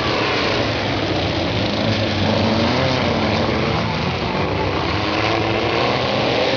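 Several VW Fusca (Beetle) race cars' air-cooled flat-four engines revving hard together as they race off the start, their pitches rising and falling over one another.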